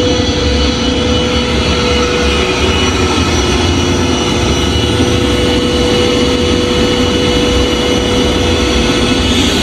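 Steady vacuum cleaner motor noise, a held whine over a hiss, played from a recording while the real vacuum is switched off, so the machine sounds on but picks nothing up.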